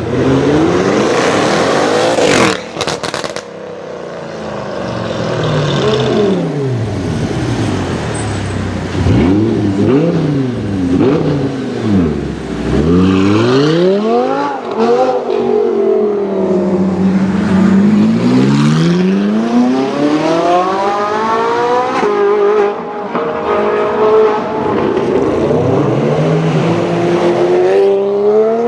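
Sports car engines revving and accelerating hard, the pitch climbing and falling again and again. There are sudden switches from one car to another, about two and a half seconds in and again around twenty-two seconds.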